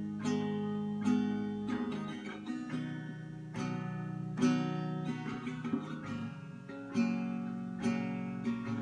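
Acoustic guitar strumming chords in an instrumental interlude between sung verses, with no voice.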